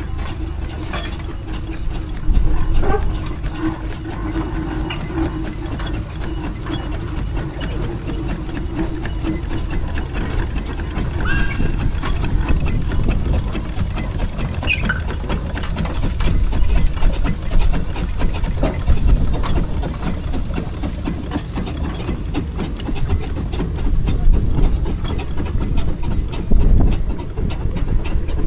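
Steam road engines running in a show arena: a steady low rumble with steam hiss and scattered clanks and knocks, plus a steady low hum that fades out about ten seconds in.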